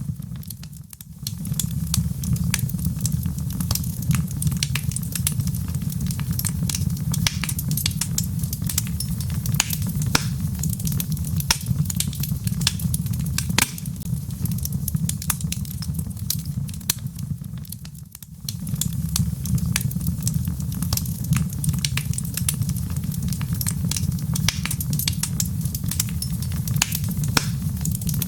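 Wood log fire crackling, with frequent small sharp pops over a steady low rumble of the flames. The sound dips briefly twice, about a second in and about two-thirds of the way through.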